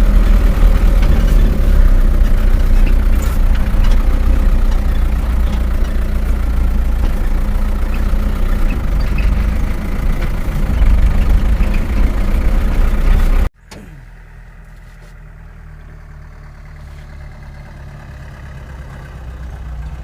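Truck engine running steadily with a loud low rumble. About two-thirds of the way through it cuts off abruptly to a much quieter engine sound that slowly grows louder.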